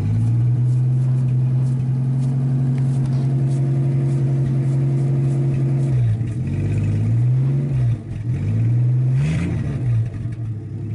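1951 Studebaker engine running steadily a little above idle, then about six seconds in its speed drops and rises twice as the throttle is blipped before settling back. The engine is raised off idle so the generator charges instead of showing a slight discharge.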